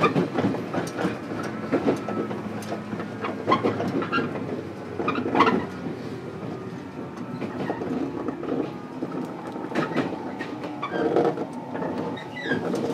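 Interior running sound of a JR 415 series electric train, heard from inside a motor car: the wheels rumble and clatter irregularly over rail joints and points. A faint steady tone comes in near the end.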